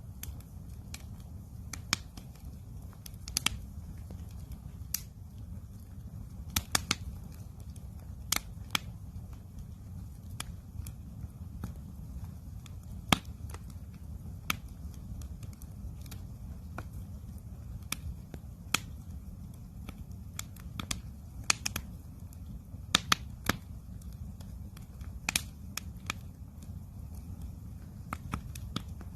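Wood campfire crackling: irregular sharp pops and snaps scattered over a steady low rumble of the flames.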